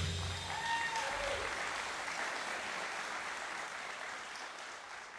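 Audience applauding a jazz big band's finish, with a brief shout about a second in; the applause fades out toward the end.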